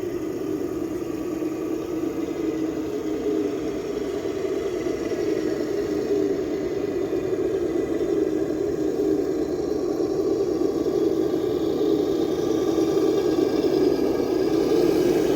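Traxxas TRX6 RC crawler's electric motor and drivetrain running steadily as it drives, a continuous hum that slowly grows louder.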